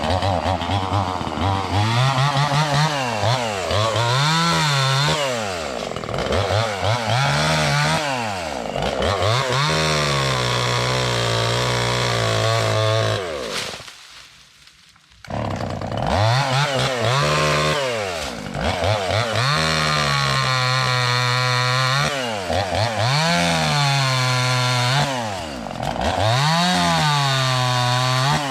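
Chainsaw running in repeated cuts through brush and small trees, its engine pitch climbing and sagging every couple of seconds as it is throttled up and loaded in the wood. There is a short break about halfway through.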